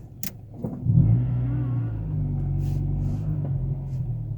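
Acura Integra's engine pulling the car forward slowly at light throttle, a steady low drone that comes in suddenly about a second in and steps up in pitch a second later.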